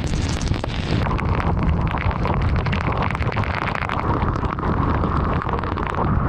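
Heavy rain on a moving car: a dense patter of drops striking the roof and windshield over a steady low rumble of the car and tyres on the wet road.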